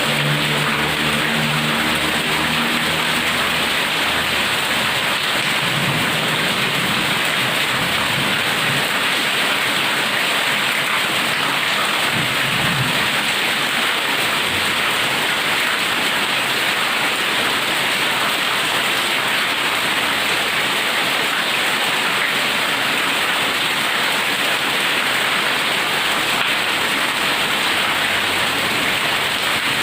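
Heavy rain pouring down steadily, with low rolls of thunder about six and twelve seconds in. A low hum fades out in the first few seconds.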